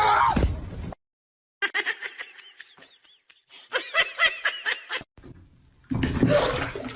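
Background music cuts off, then a run of laughter in quick bursts that rise and fall in pitch. A burst of noise follows near the end.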